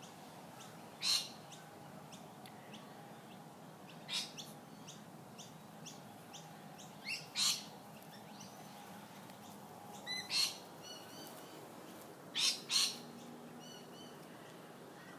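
Birds calling: short loud calls about every three seconds, the later ones in quick pairs, over faint, rapidly repeated high chirps.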